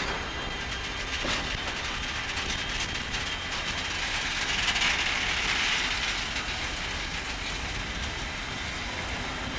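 Freight train of sliding-wall wagons rolling past at low speed, their wheels rumbling on the rails with scattered clicks. The sound swells briefly about halfway through.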